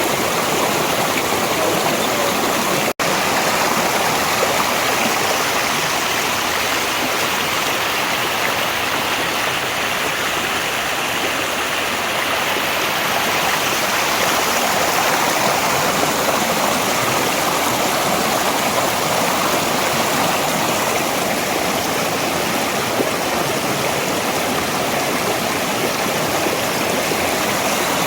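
Mountain valley stream running, a steady, even rush of flowing water, with a split-second dropout about three seconds in.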